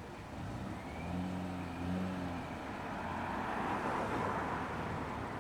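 A road vehicle driving past: a low engine hum, then tyre and road noise swelling about three seconds in.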